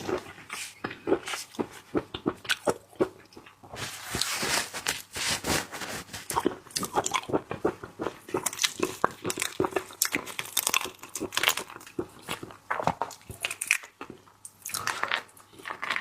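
Close-miked eating of crab: shell cracking and crunching between the teeth, with chewing, in quick irregular bites that are busiest in the middle.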